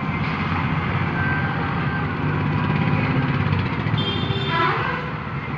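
Steady low engine rumble, with a short higher-pitched tone about four seconds in.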